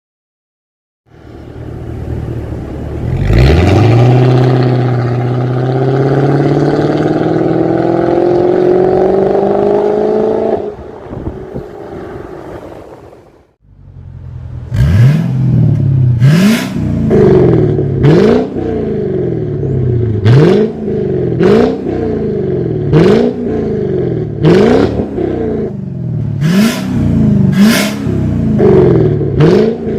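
Mercedes-Benz S500 W220's 5.0-litre V8 through a valved cat-back exhaust: it fires up about three seconds in and idles with the note slowly rising, dies away around eleven seconds in, then is revved in a long series of quick throttle blips, about one every second and a half, each rising and falling in pitch, with sharp cracks from the exhaust.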